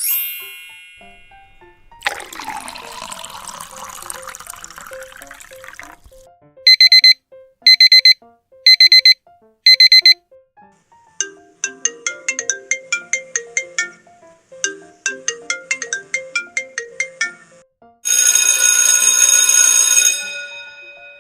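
Light piano background music with a string of short cartoonish sound effects laid over it: a chime, a soft rushing whoosh, four quick ringing bursts like a phone ringtone, fast plinking notes, and a bright shimmering tone near the end.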